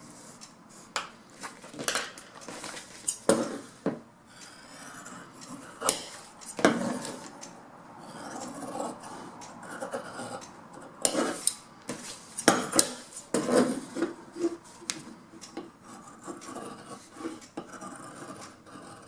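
Vinyl upholstery material being worked by hand: irregular rubbing and scraping with scattered sharp clicks and taps.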